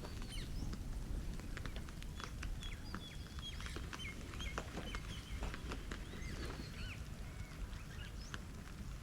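Small birds chirping and whistling in quick, repeated short calls, over scattered sharp clicks and a low outdoor rumble.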